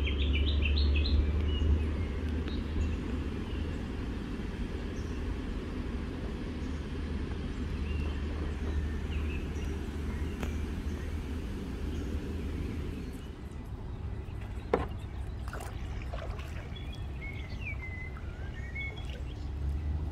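Small birds chirping and calling at intervals, with a quick run of chirps at the start and more calls near the end, over a steady low rumble. A single sharp knock sounds about fifteen seconds in.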